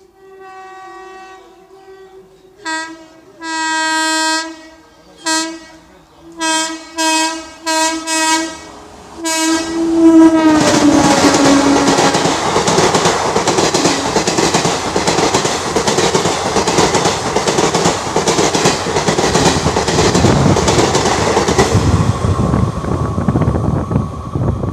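Indian Railways locomotive horn: a long blast followed by a string of short toots, its pitch dropping as the train reaches the microphone. Then the loud rush and rapid wheel clatter of a fast train's coaches passing over the track.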